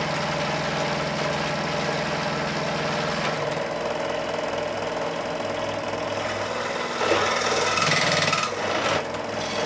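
A power tool running while cutting a length of pipe used as a cover for hydraulic hoses, its motor pitch shifting about three seconds in, with a louder stretch of cutting noise near the end.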